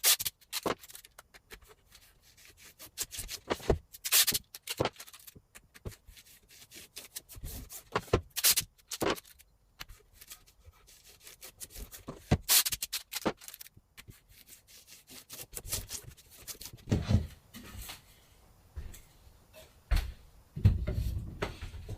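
Handling sounds from silkscreen plate-making work: scattered sharp clicks and knocks with some rubbing, and a few heavier low thumps near the end.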